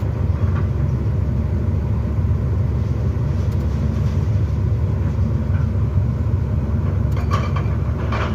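Heavy excavator engine running with a steady low rumble, with a short burst of clattering noise about seven seconds in.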